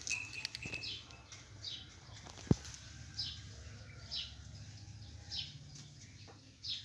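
A bird chirping over and over, short high chirps that slide downward, roughly one a second. One sharp click comes about two and a half seconds in.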